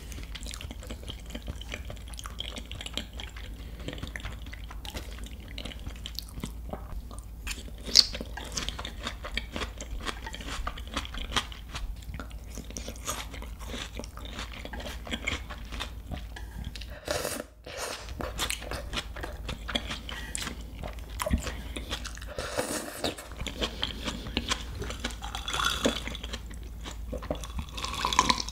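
Close-miked chewing of seasoned raw beef tartare (yukhoe), with many small wet clicks, smacks and light crunches. Near the end she drinks from a glass of juice.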